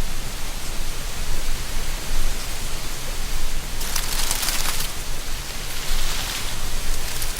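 Autumn wind blowing through a tree canopy, a steady low rush with dry leaves rustling more loudly in gusts, about four seconds in and again around six seconds.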